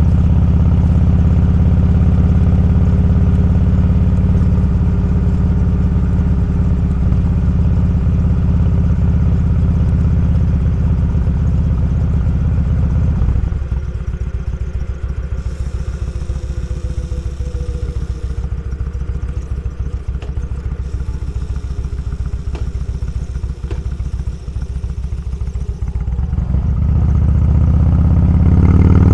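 Motorcycle engine heard from the bike while riding: it runs steadily under throttle, then about halfway through drops to a quieter, pulsing off-throttle rumble as the bike coasts, and picks up again near the end as the throttle is opened.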